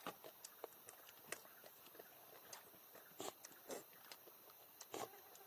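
Faint scattered clicks and light knocks, a few louder ones roughly every second, against a quiet background.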